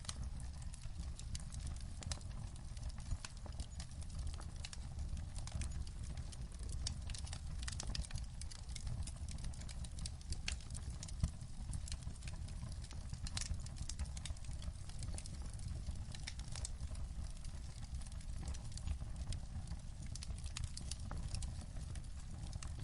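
Wood fire crackling in a fireplace: a steady stream of irregular sharp pops and snaps over a low, steady rumble.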